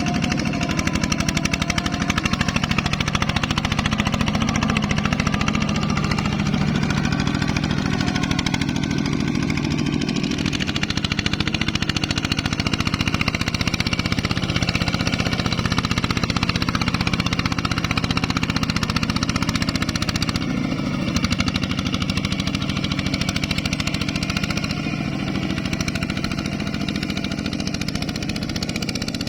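Diesel engine of a ZT 155 two-wheel tractor running steadily, with a rapid, even thudding beat; it eases off briefly about two-thirds of the way through.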